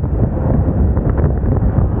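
Wind buffeting the microphone of a moving Moda Moca 110 scooter, a steady low rumble with the ride's engine and road noise mixed in.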